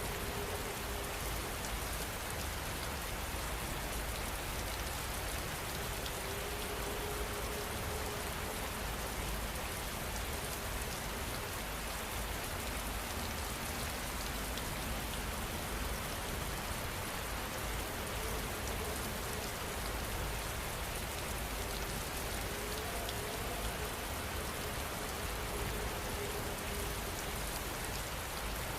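Heavy rain falling steadily, a dense, even patter on surfaces with no letup.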